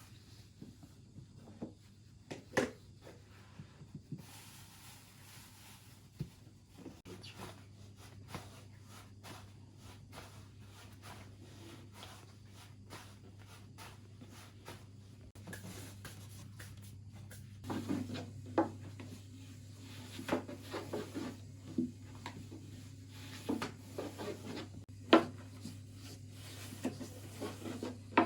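Scattered light knocks, taps and rubbing from hands handling things during baking preparation, over a steady low hum. The knocks come more often in the second half, with a few sharper ones.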